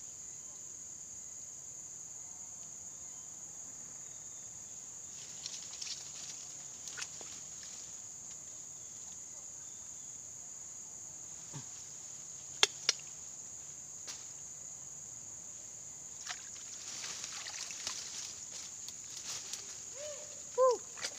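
Steady high-pitched chorus of crickets and other insects, with two sharp clicks about halfway through.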